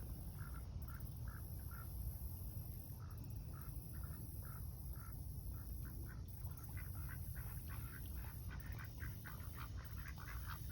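Ducks calling with short, repeated quacks, a few a second, growing busier about halfway through.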